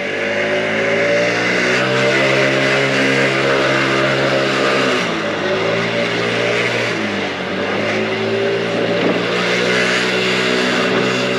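Engine of a 2022 Mondial Turismo 80cc motorcycle running on the move, with a steady note that drops off about five seconds in and picks up again a couple of seconds later. Wind noise on the microphone.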